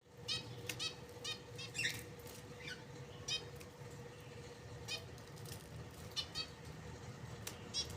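Zebra finches calling: short, nasal chirps, a dozen or so at irregular intervals, over a steady low hum.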